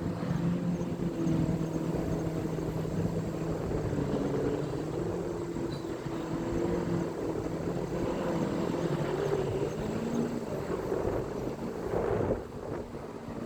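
A steady engine drone, a low hum whose pitch wavers slightly, over a noisy rumble.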